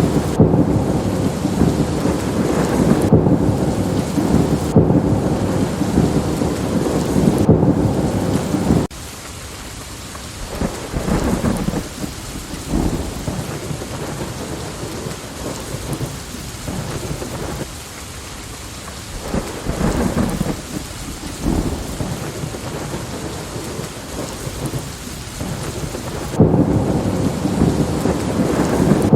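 Rain and thunder: a dense, loud crackle of thunder over rain cuts off abruptly about nine seconds in. It gives way to quieter rain with rolls of thunder swelling and fading several times, before the loud crackle cuts back in near the end.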